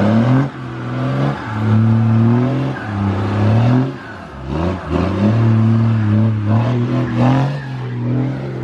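Truck engine revving hard and held at high revs during a burnout, dipping briefly around the middle before climbing and holding high again; the burnout spins only one rear tire.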